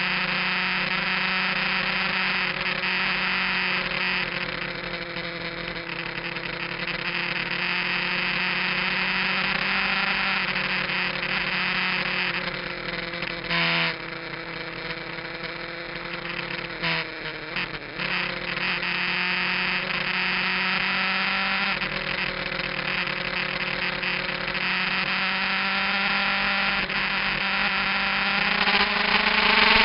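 Kawasaki GPZ900R's inline-four engine, fitted with an aftermarket muffler, running at speed under heavy wind noise, heard from a camera mounted on the bike. The engine note holds fairly steady with a slight dip and a few brief breaks in the middle, then climbs sharply near the end as the bike accelerates.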